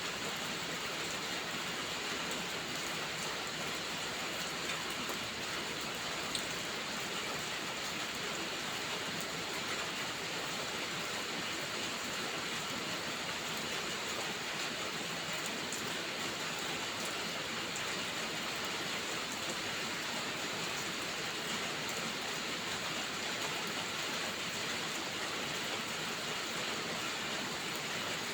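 Steady rainfall: an even, unbroken hiss with an occasional faint tick, such as a single drop.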